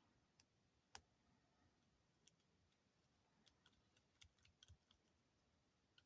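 Near silence with faint small clicks of a beaded bracelet and its metal lobster clasp being handled: one about a second in, then a scattered cluster a few seconds later.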